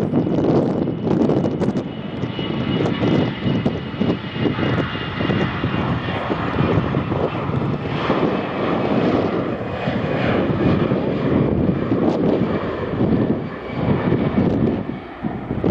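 Jet airliner engines running, with a faint high whine above the engine noise, mixed with wind buffeting the microphone.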